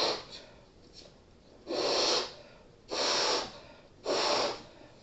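A person blowing up a balloon by mouth: hard breaths puffed into it one after another, about one a second, with quiet breaths in between.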